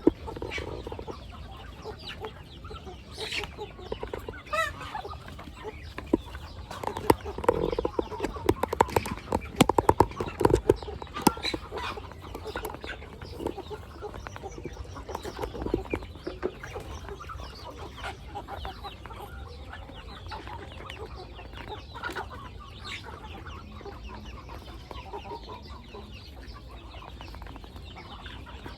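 Chickens clucking, with a rapid run of sharp taps or clicks in the middle.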